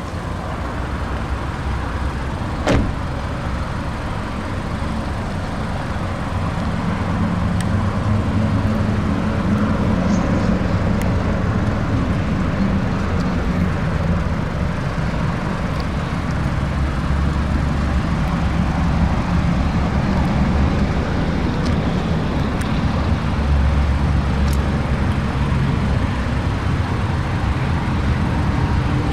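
Mazda CX-5's engine running, a steady low hum whose pitch drifts slowly, over a wash of noise, with a single sharp click about three seconds in.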